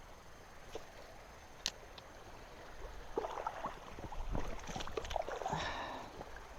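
Faint water sloshing and gurgling, with a couple of sharp clicks in the first two seconds and a busier stretch of irregular splashing over the second half.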